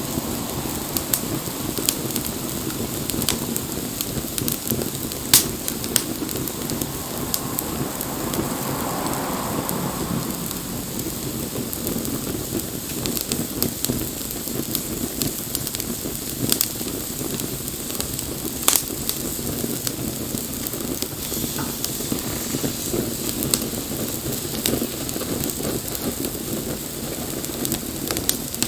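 Wood bonfire burning steadily, hissing and crackling, with sharp irregular pops. Two of the pops, about five seconds in and near nineteen seconds, are louder than the rest.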